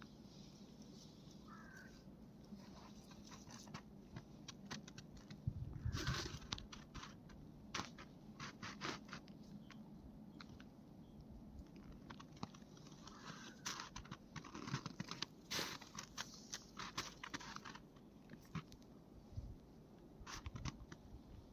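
Footsteps crunching on snow, faint and irregular, in clusters of crisp crunches.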